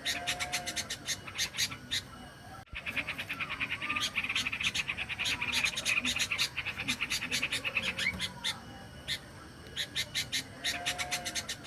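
Yellow-vented bulbul (trucukan) calls from a bird-lure recording: runs of short, rapidly repeated chirps that thicken into a dense chatter through the middle. The sound cuts out for an instant about three seconds in, like an edit in the recording.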